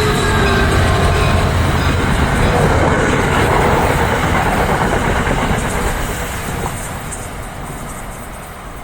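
NJ Transit train passing at speed, its wheels on the rails making a loud, steady rumble and rush that fades from about six seconds in as the train moves away.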